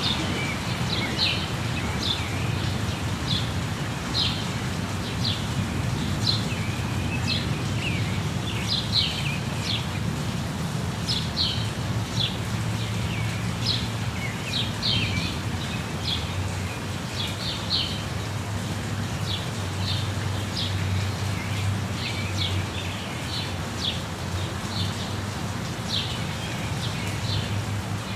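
Steady rushing of a waterfall, with many birds chirping over it in short, quickly repeated calls.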